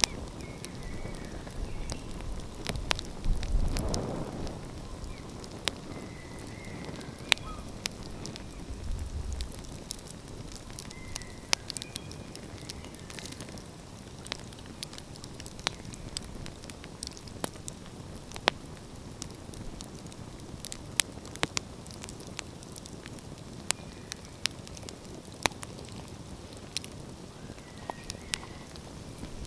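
Wood fire crackling, with irregular sharp pops and snaps over a steady low hiss. A low rumble swells and fades about four seconds in.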